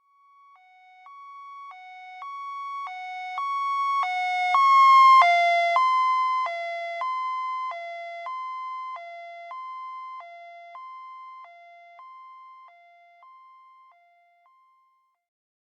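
Two-tone hi-lo ambulance siren alternating between a high and a low note, about one high-low cycle every 1.3 seconds. It grows louder as it approaches, drops slightly in pitch as it passes about five seconds in, then fades away into the distance.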